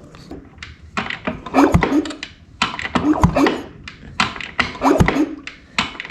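Kickstarter of a 1974 Yamaha DT100 two-stroke engine being kicked several times. Each kick is a heavy thunk, about a second and a half apart, as the engine turns over without starting because it has no spark.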